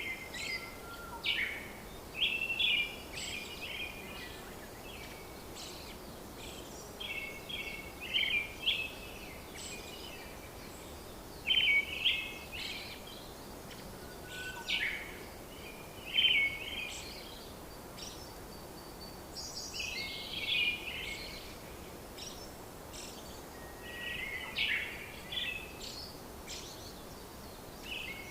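Songbirds singing in short, quick chirping phrases that recur every few seconds, over a steady background hiss.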